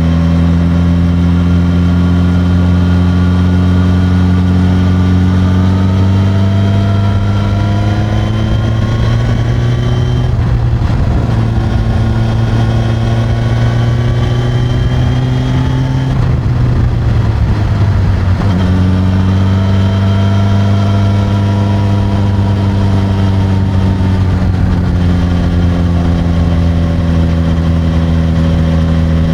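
Suzuki GSX-S1000's inline-four engine through its stock exhaust, recorded from the seat while riding. The engine note climbs slowly for about ten seconds, turns rougher and noisier for several seconds, then drops and settles to a steady pitch.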